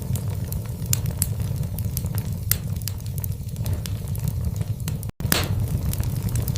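Wood fire burning in a fireplace: a steady low rumble with frequent sharp crackles and pops from the logs. About five seconds in, the sound cuts out for an instant, then comes back with a loud pop.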